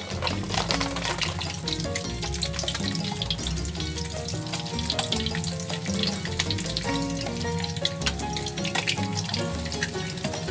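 An egg frying in a pan: a steady sizzle with fine crackling, under background music with a melody and a bass line.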